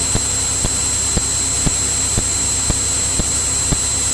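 Steady cabin noise of a Cirrus single-engine piston aircraft in cruise, engine and propeller droning with a constant high whine, and a faint click about twice a second.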